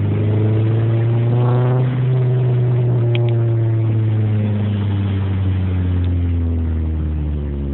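2007 Honda Civic Si's 2.0-litre four-cylinder running through a Borla exhaust and catless 4-2-1 header. The pitch climbs for about two seconds as the car accelerates, then holds and slowly falls as it eases off.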